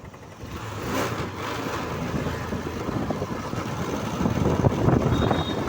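Hero Karizma ZMR motorcycle riding along the road, its engine running under a rush of wind over the microphone, getting louder about four seconds in. A short high beep sounds near the end.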